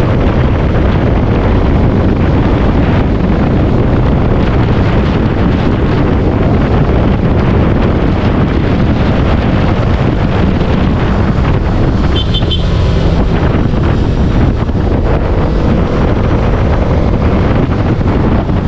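Steady wind noise buffeting the microphone of a motorcycle riding at speed on an open road, with engine and road noise underneath. A brief high beeping sounds about twelve seconds in.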